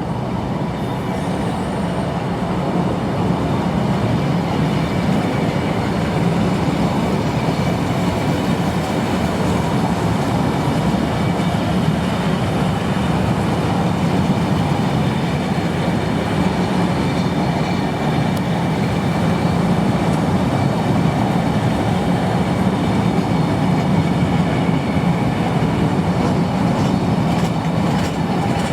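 A train running past on the line: a long, steady rumble of wheels on the rails that builds a little over the first few seconds and then holds.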